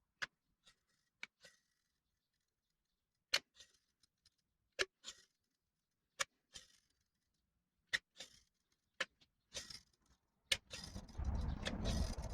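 Metal tools and engine parts being handled on the bench: about a dozen sharp, separate clicks and clinks at irregular intervals, then a denser run of clattering and handling noise near the end.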